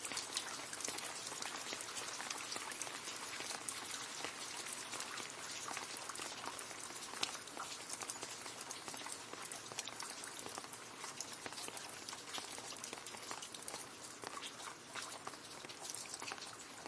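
Rain falling into a puddle: a steady, dense patter of many small drops splashing on water.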